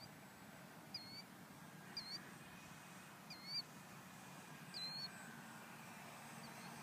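A small bird giving a short, high call that dips and rises in pitch, repeated about once a second, six times, the loudest near the middle, over faint steady outdoor background noise.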